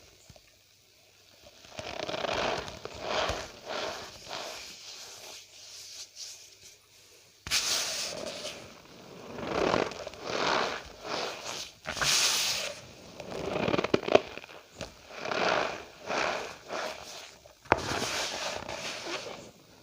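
Cornstarch powder being pressed and crushed, giving a run of squeaky, crunchy bursts, each under a second long, after a quiet first two seconds.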